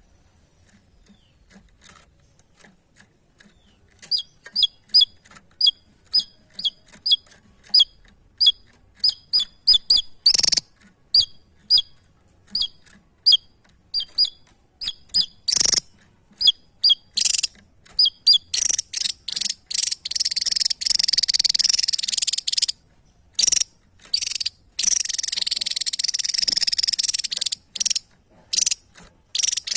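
A small songbird singing loudly: after a few faint ticks, sharp high chirps repeated two or three times a second, then from about two-thirds through a long, dense, buzzing trill broken by short pauses. Two sharp clicks stand out partway through.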